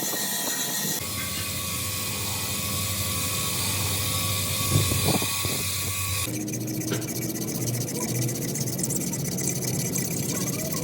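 Steady mechanical hum of running machinery with a few held tones, changing character abruptly about a second in and again about six seconds in.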